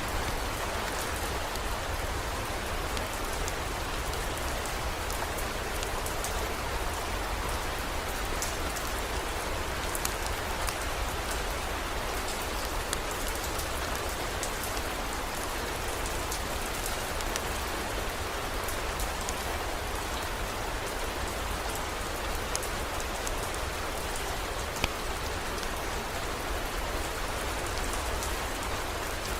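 Steady heavy rain, with scattered drops ticking sharply on a surface and a constant low rumble underneath.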